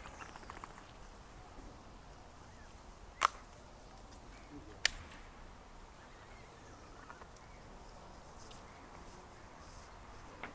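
Two sharp clicks about a second and a half apart over a faint steady background hiss.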